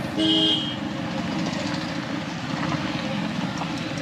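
Motorcycle engine and road noise while riding, steady throughout, with a short horn beep of about half a second at the start.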